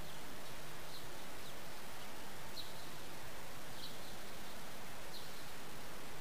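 Steady background hiss with faint, short, high chirps from a small bird, about one every second or so.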